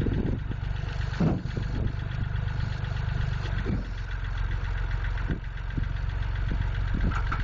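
Massey Ferguson tractor engine idling with a steady low rumble, with a few brief thumps.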